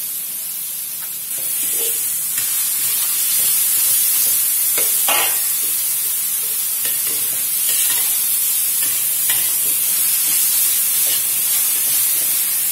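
Chopped shallots, garlic and ginger sizzling in hot oil in a metal wok, the sizzle growing louder about a second in, while a metal spatula scrapes and clinks against the wok as they are stirred.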